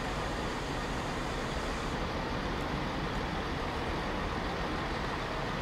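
A train at a station making a steady, even rumble, with no separate knocks, horn or announcement.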